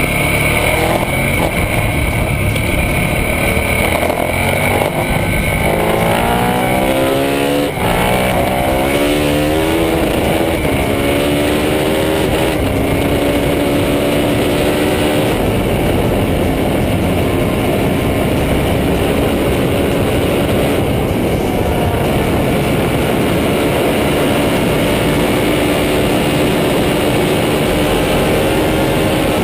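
KTM motorcycle engine under hard acceleration. Its pitch climbs, drops at a gear change about 8 seconds in, and climbs again before settling into a steady high-rev drone at sustained speed.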